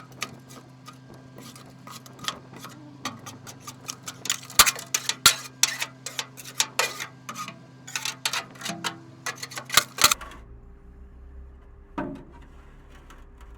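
Irregular clicks, knocks and scrapes of debris being worked loose by hand in the steel gate of a belly dump trailer, coming thick and fast for about ten seconds, then mostly stopping, with one more knock near the end. A steady low hum runs underneath.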